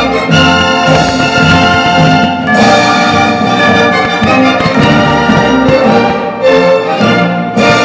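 Loud orchestral music with brass and strings, held chords over a low rhythmic part.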